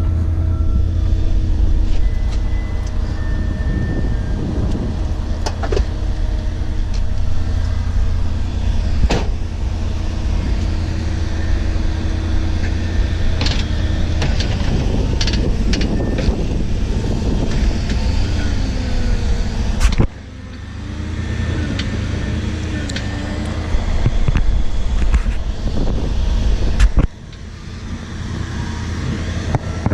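A car running: a steady low rumble of engine and road noise. It drops away suddenly about twenty seconds in and again near twenty-seven seconds, each time building back up over a couple of seconds.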